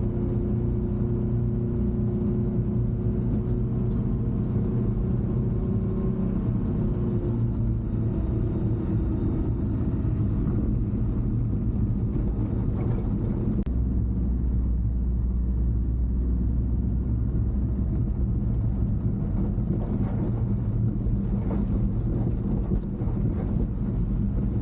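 Mini truck's small engine running steadily while driving, with a low drone and road rumble; the engine note shifts a few seconds in and deepens for a few seconds past the middle. Light crackles come and go in the second half.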